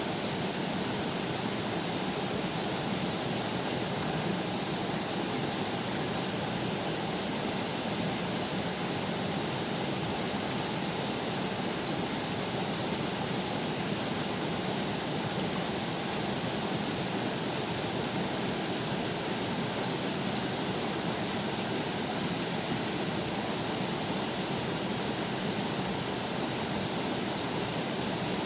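River water flowing over rocks, a steady unbroken rush.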